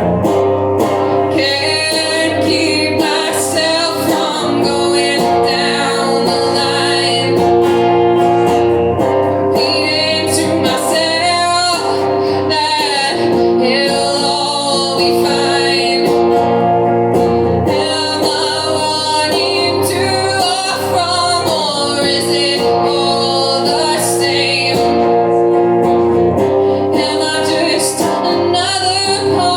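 A band playing a song live, with singing over the instruments throughout.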